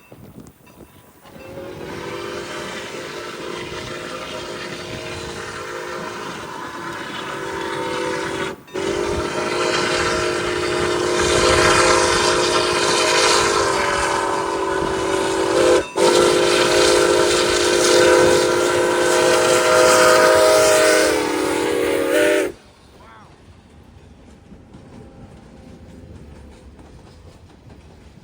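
Diesel locomotive air horn sounding a chord in three long blasts. The pitch sags slightly near the end of the last blast as the locomotive passes, and then it cuts off. The train's wheels are left rolling by more quietly.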